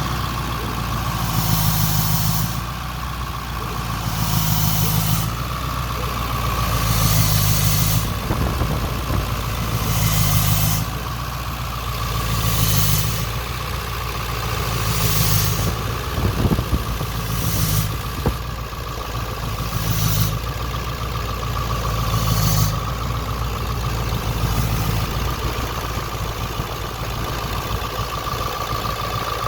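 Ford 7.3L Power Stroke V8 turbodiesel idling before it has warmed up. An odd sound comes and goes over the steady idle, less than a second at a time, about every two and a half seconds. It repeats about nine times and stops a little over twenty seconds in.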